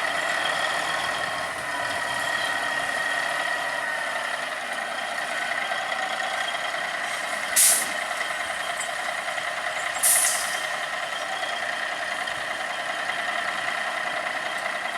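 Gravel truck running steadily with a constant whine, with two short hisses of its air brakes about two and a half seconds apart, near the middle.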